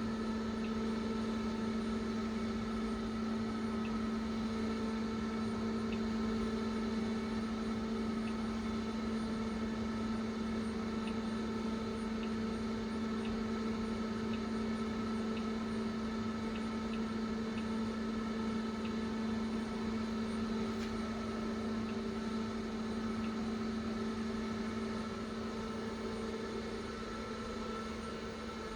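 Steady machine hum made of several fixed tones, with a few faint ticks scattered through it and no change in pitch or level.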